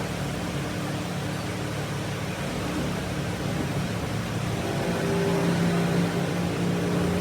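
A machine running steadily with a low hum, getting a little louder and higher about four and a half seconds in.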